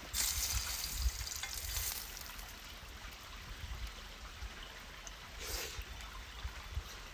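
Sirloin steak sizzling over a campfire: a loud hiss for the first two seconds that fades, and a second short hiss about five and a half seconds in.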